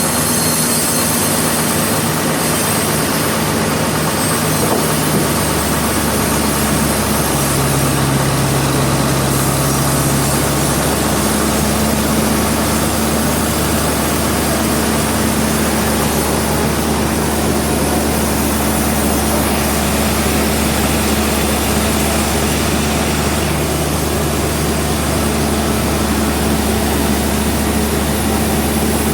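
Sawmill machinery running steadily: a motor's low hum under the continuous noise of the saw, its pitch shifting slightly a few times.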